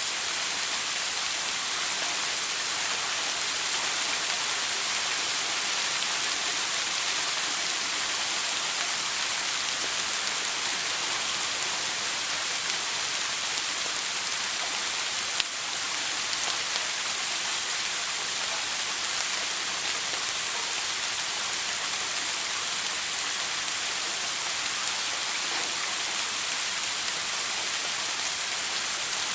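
Shower water spraying in a steady, even hiss of falling water with no break.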